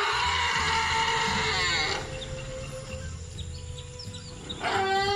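An animal crying out loudly twice: a long, rough call that rises and then falls in pitch, then a second call beginning near the end. A few faint high chirps sound in the quieter gap between the calls.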